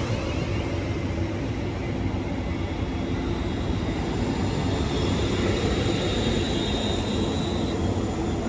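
Two coupled Class 350 electric multiple units running through the platform: a steady rumble of wheels and running gear with a faint, steady whine over it.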